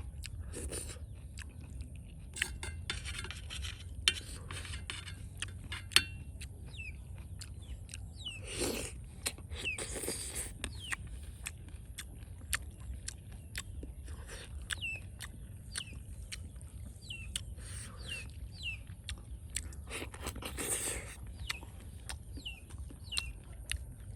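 Scattered clicks and knocks, like utensils on dishes, with a few longer scrapes, over a steady low rumble. Short falling chirps, like a bird's, recur throughout.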